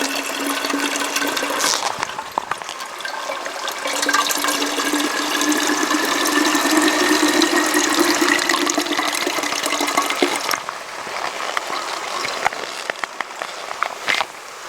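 Water pouring into a container, a faint tone in it slowly rising in pitch as the container fills, then the pour stops sharply about ten seconds in, leaving a quieter trickle and a few small knocks.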